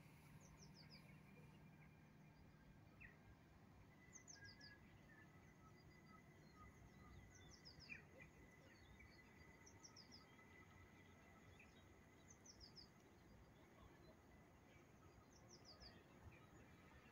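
Faint small songbird calling: short groups of three or four quick, high notes, each sliding downward, repeated every two to three seconds over a faint low hum.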